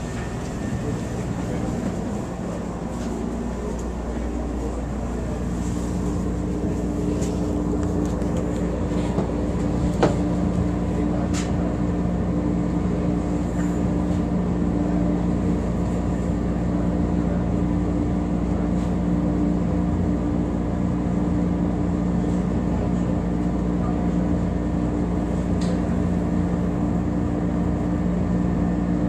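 Steady hum of a stationary CTA rapid-transit railcar, heard from inside the car, with two steady tones that grow stronger about five to ten seconds in over a low rumble. A single sharp click comes about ten seconds in.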